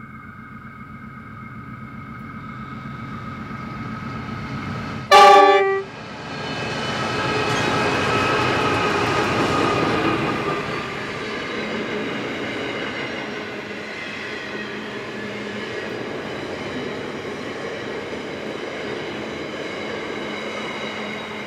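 A container train's two Pacific National NR class diesel-electric locomotives approach, growing steadily louder, and give one short horn blast about five seconds in. The locomotives pass loudest a few seconds later, then the container wagons roll by with a steady sound of wheels on rail.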